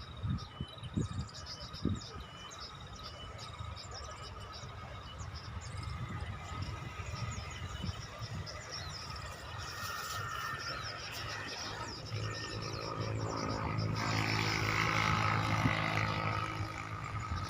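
Small birds chirping in quick, short, high calls. About twelve seconds in, a low steady hum joins and grows louder.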